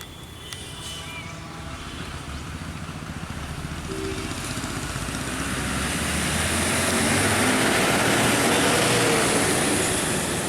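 A motor vehicle's engine and tyres on a hill road, approaching and getting steadily louder over several seconds until it is close, near the end.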